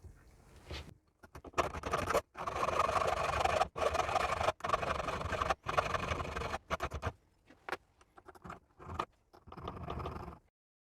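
Scraping and rattling of metal parts being worked, in several short clips that start and stop abruptly, ending in silence near the end.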